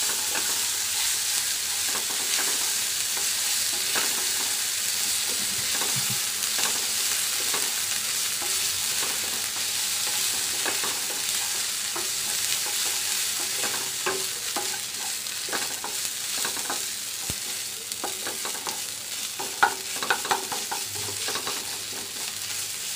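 Ginger-garlic paste, turmeric and whole spices sizzling in a little hot oil in a kadai, stirred and scraped with a wooden spatula. A steady frying hiss, easing slightly as the flame is turned low, with light scraping ticks and a few sharper knocks of the spatula near the end.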